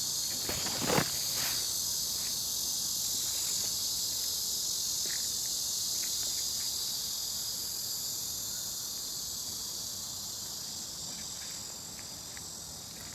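Steady, high-pitched chorus of insects such as crickets, with a short knock about a second in.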